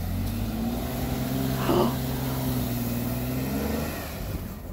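Jeep Wrangler Rubicon's engine running under load as it drives through deep snow, its pitch holding steady and then shifting slightly near the end, with one brief louder rush a little under two seconds in.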